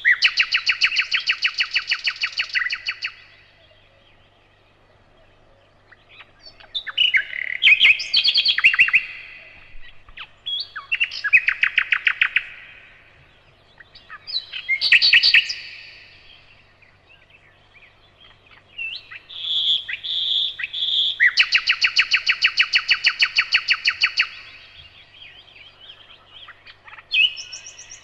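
Nightingale singing: about six phrases of fast, rapidly repeated notes with short pauses between them, some phrases opening with a few slow, pure whistled notes.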